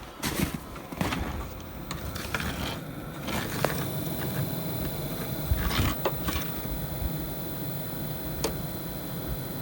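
Vevor diesel heater in its shutdown cool-down, its fan still running steadily with a faint high-pitched tone, to cool the burner after switch-off. Scattered short clicks and scrapes sound over it.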